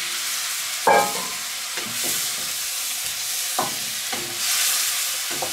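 Cubes of Bohemian bread dumplings sizzling and frying in melted butter in a wok over charcoal. A steady high sizzle runs under a wooden spatula that stirs them and knocks against the pan several times, loudest about a second in.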